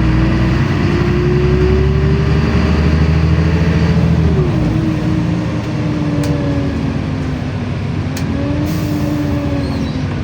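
LiAZ-5292 city bus running, heard from inside the cabin. The engine pulls under load with a slowly rising whine, then eases off about four seconds in. The low rumble drops and the whine dips and climbs again.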